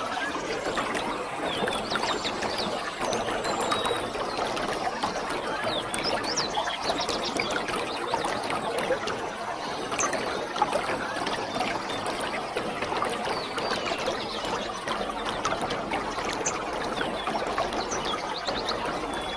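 Waterfall: a steady rush of falling water with many small splashes and trickles.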